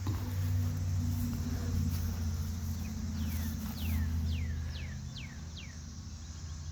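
A bird sings a run of about six clear whistled notes, each sliding down in pitch, starting about three seconds in. Under it runs a steady low hum.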